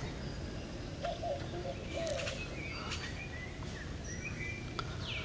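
Birds chirping and calling in short whistled notes and sliding glides, over a steady low outdoor background noise.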